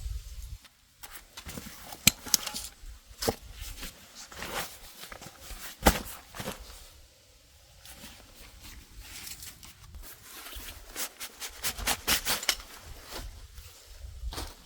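Irregular clicks, taps and rustles, as of camping gear being handled close by, coming in clusters with pauses between.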